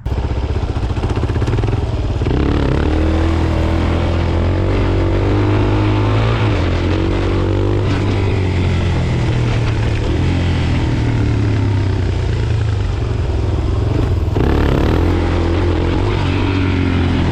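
Suzuki DR-Z400's single-cylinder four-stroke engine running under way, rising in pitch as it accelerates about two seconds in and again near the end.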